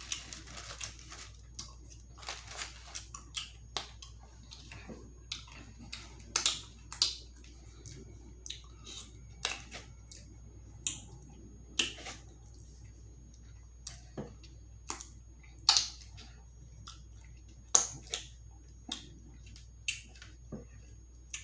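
Close-miked eating sounds of a person eating chicken wings: irregular wet mouth smacks and clicks with chewing between them, a few of the smacks much louder than the rest.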